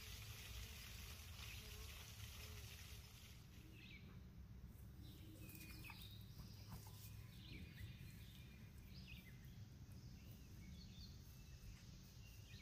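Faint, scattered bird chirps over a low steady hum, near silence.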